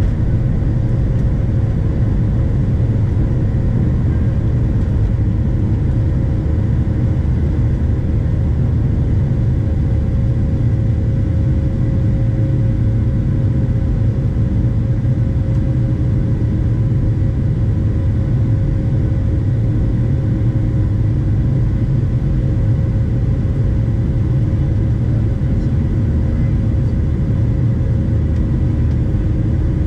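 Steady cabin noise inside a Boeing 737-700: a loud, deep engine and airflow rumble from its CFM56 turbofans, with faint steady whining tones, level throughout with no rise or fall.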